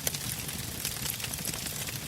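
Log campfire crackling: burning wood pops and snaps in quick, irregular clicks over a low, steady rumble.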